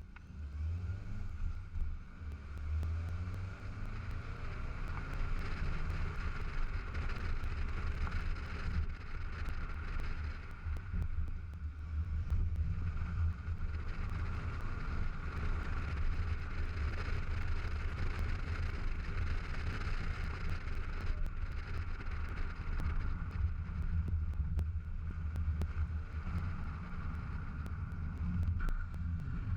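VW Scirocco driving, heard through a suction-mounted GoPro in its housing: a steady low rumble of engine and road, with wind noise buffeting the camera.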